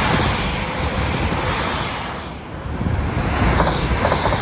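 Northern electric multiple unit running past close by along the platform: a steady rumble of wheels on rail with wind buffeting the microphone, and a run of quick clicks near the end.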